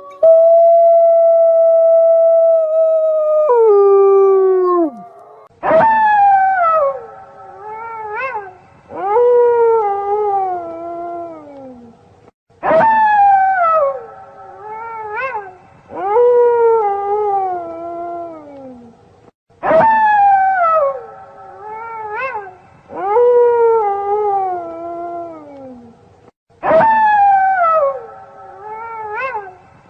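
A pack of wolves howling in chorus, several voices at once. It opens with one long held howl that falls in pitch after about three and a half seconds, then howls start sharply and glide downward, the same pattern coming round about every seven seconds.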